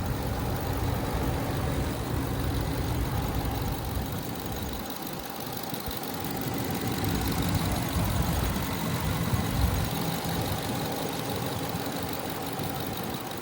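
Ram 2500's 6.4L Hemi V8 idling with a steady low engine note that thins briefly about five seconds in.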